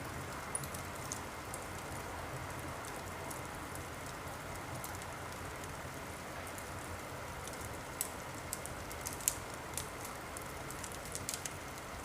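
Wood fire burning in a fireplace: a steady hiss with scattered sharp crackles and pops, a few louder pops between about eight and eleven seconds in.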